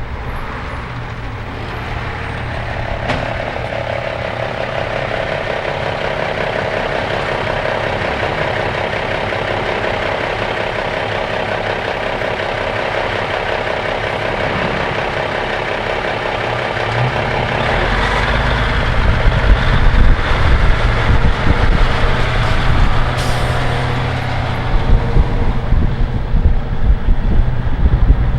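A 1984 M923A1 military 6x6 truck's Cummins NHC-250 inline-six diesel running while the truck is driven. It gets louder and rougher about two-thirds of the way through.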